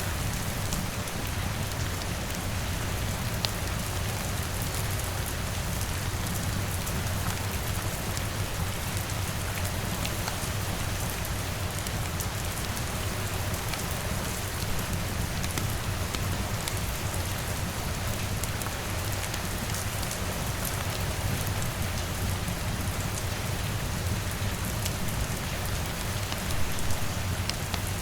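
Steady layered rain ambience: an even wash of rain with scattered sharp little crackles from a fireplace and a low steady rumble underneath. The sound swells briefly about a second before the end.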